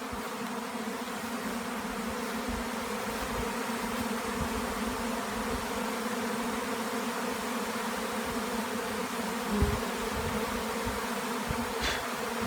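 A honeybee swarm pouring out of a hive at the start of swarming: the steady, dense hum of a great many bees in flight.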